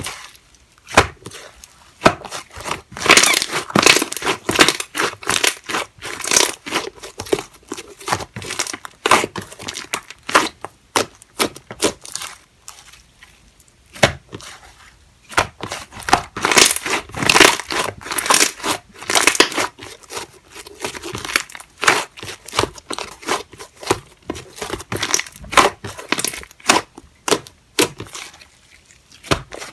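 Hands squishing, stretching and pressing slime, making dense runs of crackling and clicking with short quiet pauses between handfuls.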